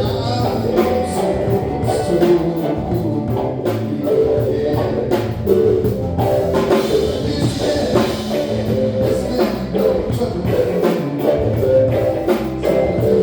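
Live rock band playing: electric guitar over a drum kit, with bass, in a steady groove.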